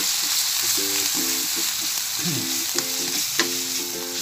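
Corned beef with onion and garlic sizzling in hot oil in a metal wok as a spatula stirs it, with two sharp clicks of the spatula against the pan in the second half.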